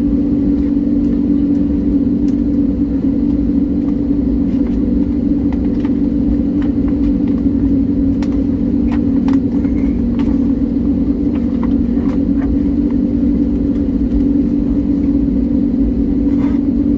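Steady drone inside an airliner cabin on the ground before takeoff, with the aircraft's engines and air conditioning running as one even hum. A few faint ticks are scattered through it.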